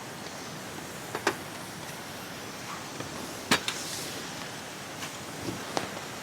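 Campfire crackling, with a few sharp pops, the loudest about halfway through, over a steady hiss of rain and wind.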